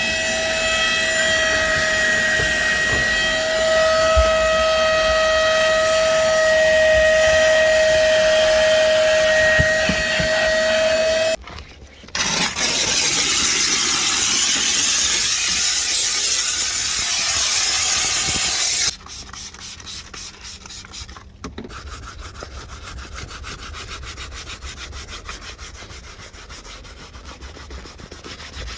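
Car-interior detailing tools in three edited stretches. First, a motor whines at a steady pitch for about eleven seconds, like a vacuum. Then there is a loud, even hiss for about seven seconds, followed by a quieter stretch of quick back-and-forth brush scrubbing on upholstery.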